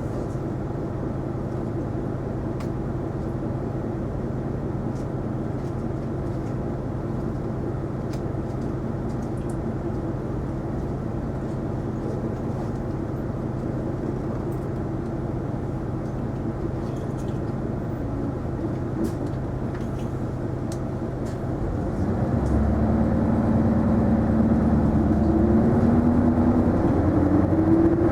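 Isuzu Erga non-step city bus heard from inside the cabin, its engine running steadily at a low pitch. About 22 seconds in the engine gets louder and its pitch climbs as the bus accelerates.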